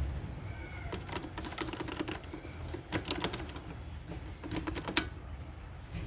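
Irregular light clicks and metal taps from hand tools working on a motorcycle engine as the kick-start lever is taken off, with one sharper click about five seconds in.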